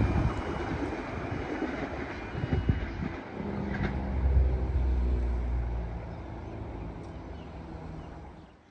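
NSW TrainLink Xplorer diesel multiple unit running through the station and away down the line, its engine and wheel rumble fading out. A low steady drone swells and dies again about four to five seconds in.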